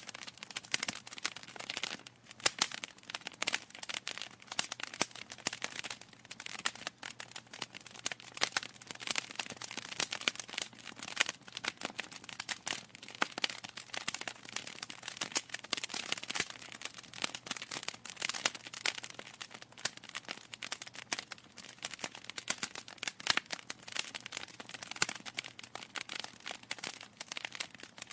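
Wood fire crackling, a dense run of small irregular pops and snaps from burning logs.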